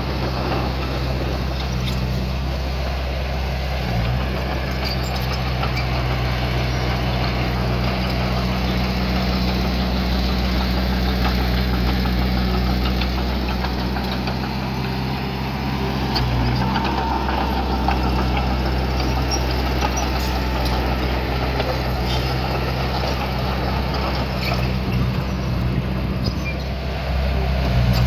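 Diesel engine of small earthmoving equipment running steadily, its note shifting briefly a few times and growing louder near the end.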